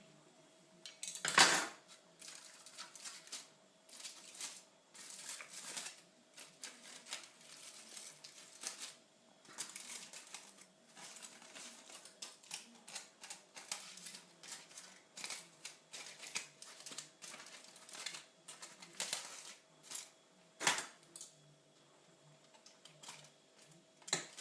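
Knife and fork clicking and scraping against a dish while cutting a cooked chicken breast in half, in an irregular patter, with a sharp knock about a second in and another near the end.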